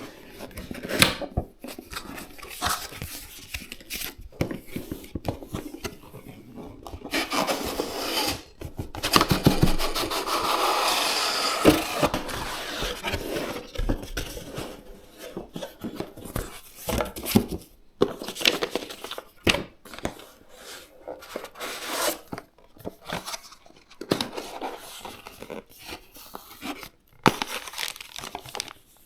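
Plastic packaging crinkling and tearing as it is handled, mixed with irregular clicks and knocks of hard parts. The busiest, most continuous crinkling comes a third of the way in.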